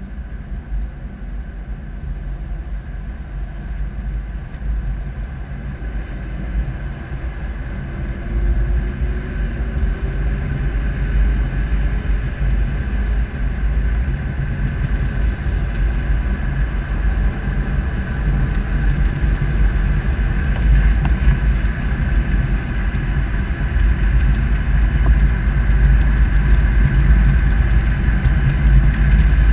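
Steady low rumble of an SUV driving slowly, picked up by a bumper-mounted camera: engine, tyre and wind noise that gradually grows louder. A faint engine note rises briefly about eight seconds in.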